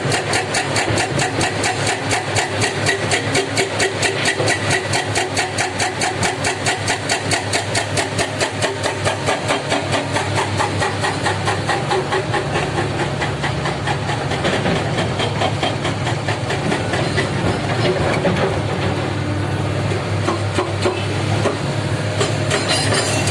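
Heavy diesel machinery engine running. For about the first half it has a fast, even pulsing, roughly five beats a second, then it settles into a steadier drone.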